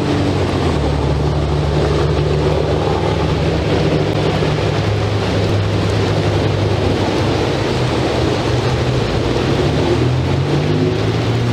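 Steady rain and wind noise on an outdoor camera microphone, with a low droning hum underneath that slowly shifts in pitch.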